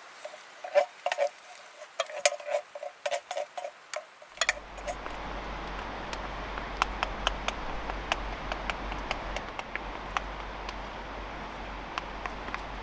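A run of quick knocks, then from about four seconds in a steady frying sizzle with scattered sharp crackles, as of food cooking in a pan over a campfire.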